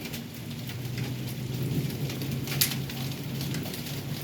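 Heavy rain and hail falling, a steady hiss broken by sharp ticks of hailstones striking, one louder about two and a half seconds in, with a low steady hum underneath.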